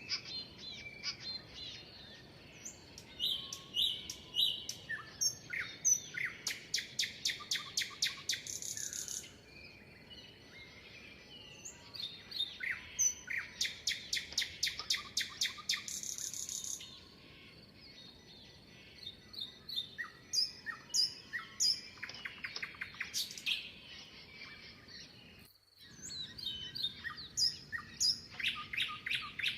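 Several songbirds singing and calling: short whistled notes and rapid trills of quickly repeated notes, coming in bursts of a few seconds, over a faint steady hiss. The sound cuts out for an instant about three-quarters of the way through.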